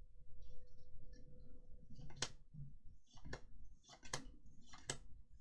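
Magic: The Gathering trading cards being handled and flipped through, with soft sliding and four sharp card snaps about a second apart in the second half. A faint steady hum runs underneath.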